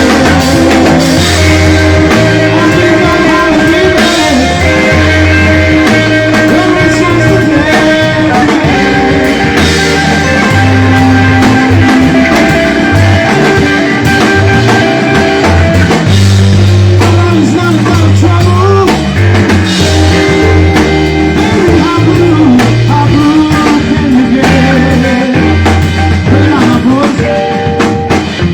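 Live blues-rock band playing an instrumental break: electric guitar soloing with bent, wavering notes over electric bass and a drum kit.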